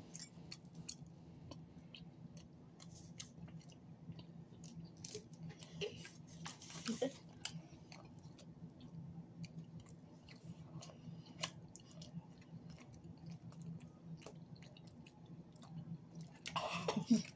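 Close-miked chewing of cheesy pizza: faint, irregular wet mouth clicks and smacks, mostly quiet.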